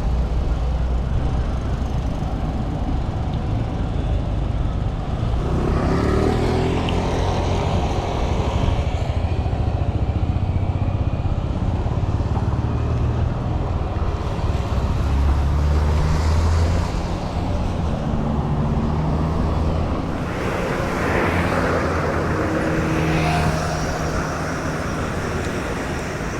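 City street traffic: motor vehicle engines running close by, with one engine rising in pitch as it accelerates about six seconds in, and a louder rush of traffic noise around twenty seconds in.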